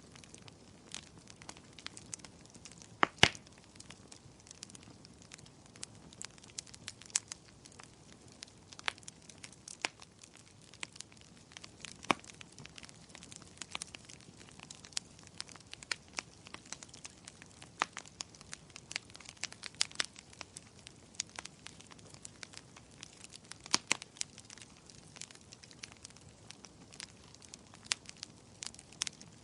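Burning firewood crackling: irregular sharp pops and snaps over a faint steady hiss, a few louder pops among them.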